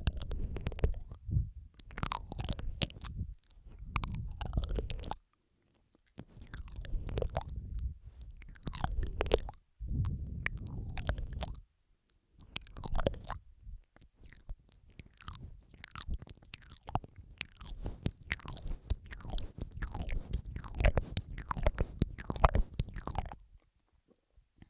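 Close-miked ASMR mouth sounds: wet clicks, smacks and licking noises made right against the microphone, layered over each other, in bursts with a few short pauses.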